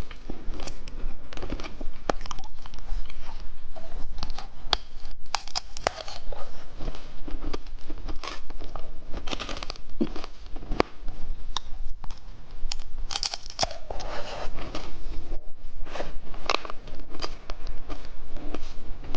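Close-miked crinkling and tearing of plastic candy packaging, with many sharp clicks and crunches.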